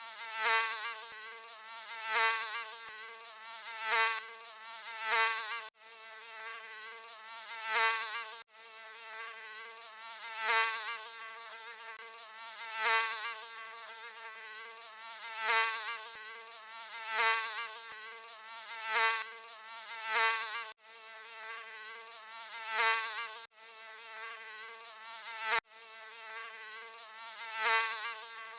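Mosquito buzzing: a steady, high whine with many overtones that swells louder about every two seconds, as if the insect keeps flying close past, with a few very brief dropouts.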